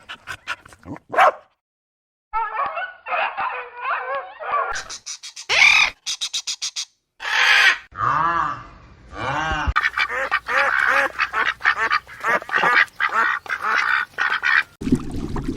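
Ducks quacking, many short calls in a run of separate clips joined one after another with abrupt cuts.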